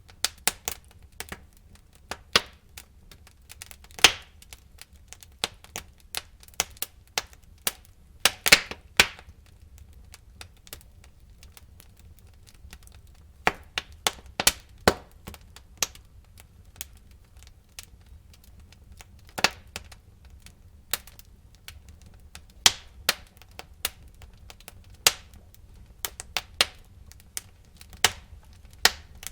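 Wood fire in a fireplace crackling: irregular sharp snaps and pops of burning logs over a low, steady rumble of the flames, with a few louder pops and short lulls between them.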